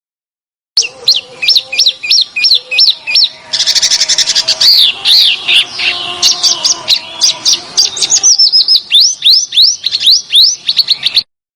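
Songbird song from a bird-training recording. It opens after a short silence with a series of rising whistled notes, about three a second. A dense buzzy trill comes about three and a half seconds in, then a faster run of rising notes. The song cuts off abruptly shortly before the end.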